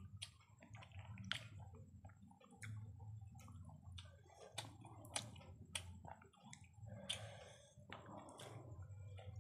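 Close-miked chewing of biryani eaten by hand: irregular wet lip-smacks and mouth clicks, about one a second, with soft squishing of rice between the fingers.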